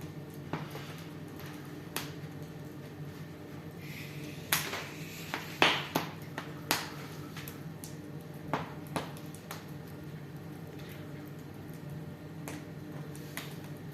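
Wood fire in a fireplace crackling, with irregular sharp pops that come thickest a few seconds in, over a steady low hum.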